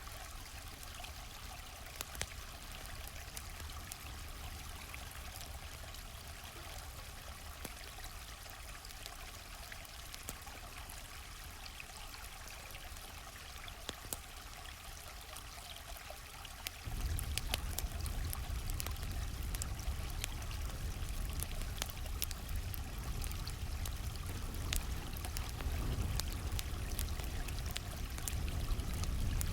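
Stream water flowing steadily, with sharp pops of a crackling campfire scattered over it. About 17 s in, the deep rumble of the water suddenly gets louder and stays that way.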